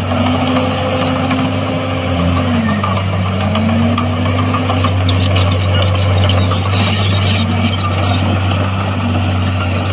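Heavy diesel engine of earthmoving machinery running steadily under load, its pitch dipping briefly and recovering a few seconds in.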